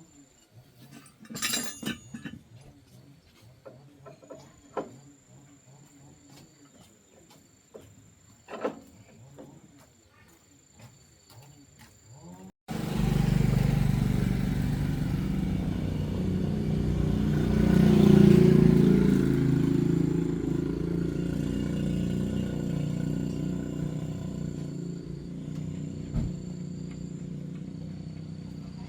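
Scattered light knocks and clicks over a faint steady insect trill. Then, after an abrupt cut about halfway through, a loud motor starts running steadily. It swells for a few seconds, then slowly eases off.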